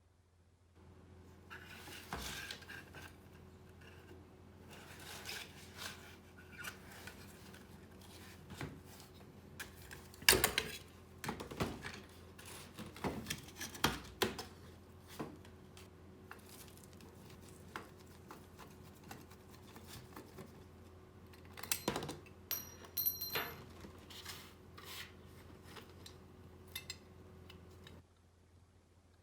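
Small metal parts of a die-cast model car clinking, clicking and scraping as they are handled and worked on, with one sharp click louder than the rest about ten seconds in. A steady low hum runs underneath and stops just before the end.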